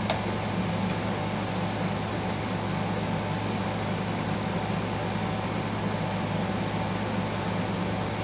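Steady low mechanical hum, unchanging throughout, with a faint click just after the start.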